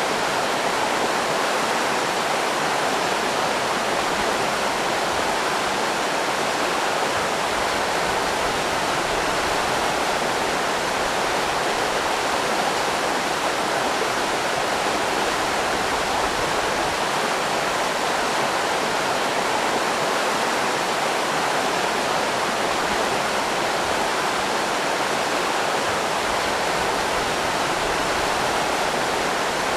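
River rapids rushing: a steady, even wash of water with no breaks.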